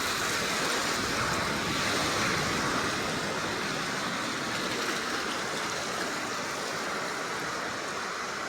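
Steady rush of moving water, an even hiss that eases off slightly near the end.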